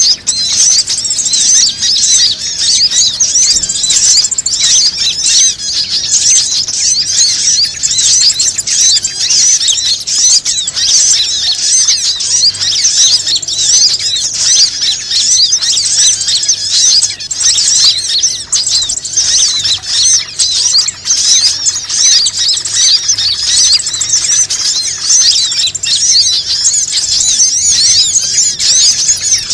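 Bird-lure (pikat) recording of small birds chirping and squeaking in a dense, unbroken high-pitched chatter of quick rising and falling notes.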